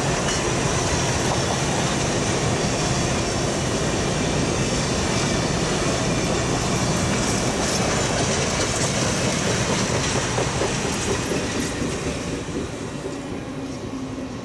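Passenger cars of a passing train rolling by on the rails, a steady rumble of wheels on track that fades away in the last few seconds as the end of the train goes past.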